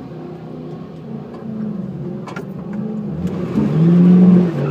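Car engine idling, then revving up about three seconds in and held at high revs, with a hiss building underneath as a burnout begins.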